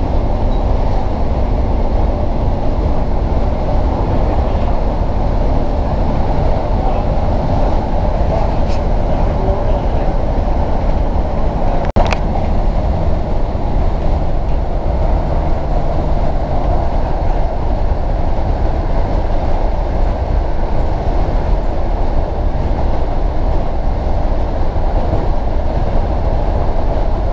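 Class 150 diesel multiple unit running along the line, heard from inside the carriage: a steady low rumble of engine and wheels on the rails, with one sharp click about twelve seconds in.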